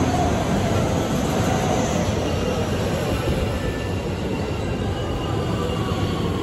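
Electric commuter train running past close along a station platform: a steady rumble of wheels on rails, with a faint whine that slowly falls in pitch.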